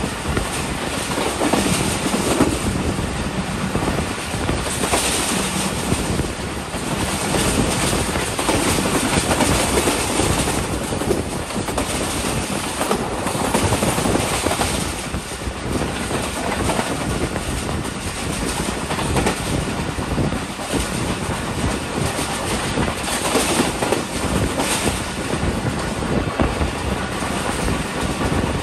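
Steady rumble and clatter of an express passenger train's wheels running over the rails at speed, heard from aboard, as the train crosses two short railway bridges.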